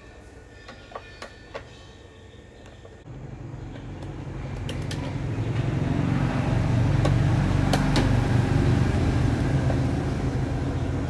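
A few faint clicks, then a heavy mechanical rumble that starts abruptly about three seconds in and grows louder over the next few seconds before holding steady.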